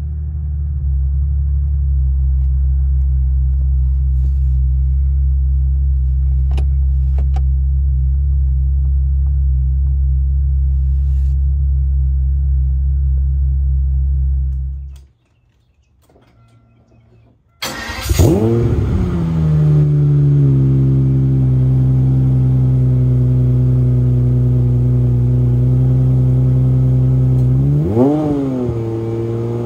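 Aston Martin DB7 Vantage's 5.9-litre V12 idling steadily, heard from inside the cabin. After a brief gap it is heard again at the exhaust tailpipes, its revs flaring and settling back to a steady idle, with two short throttle blips near the end.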